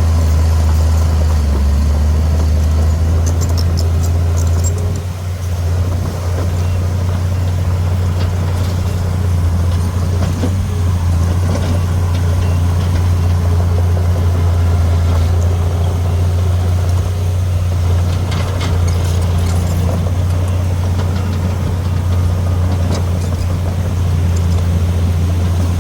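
Heavy earthmoving machine's diesel engine running steadily with a deep low drone, dipping briefly about five seconds in, with a few faint clicks over it.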